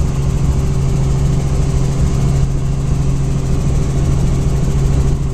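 Helicopter running: a loud, steady droning hum over a low rumble, unchanging throughout.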